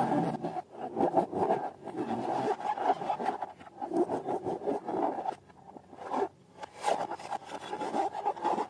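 Hands rubbing and scraping rubber balloons and slime in quick, irregular strokes, with a couple of short pauses after the middle.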